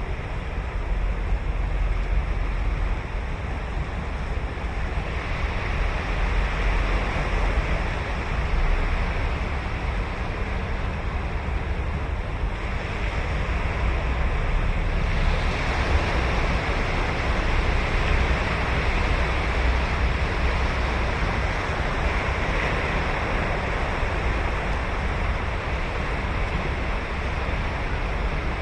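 Ocean waves breaking and washing up a sandy beach, a steady rush that swells and eases as the waves come in, with a low rumble of wind on the microphone.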